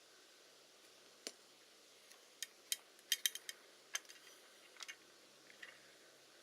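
About a dozen sharp, short clicks and light taps of small hard objects being handled, irregularly spaced, with a quick cluster of them around the middle.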